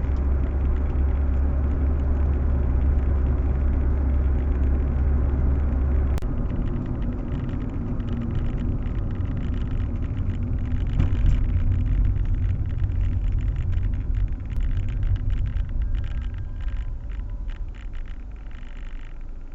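Proton Waja CPS 1.6 heard from inside the cabin: a steady low engine and road drone. A sharp click comes about six seconds in, after which the deep drone gives way to a rougher rumble that fades near the end.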